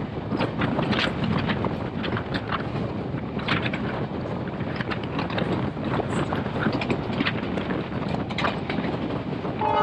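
Moving passenger train, with the carriage rattling and irregular knocks and clatters from the running gear over a steady rumble, and wind on the microphone. Music starts right at the end.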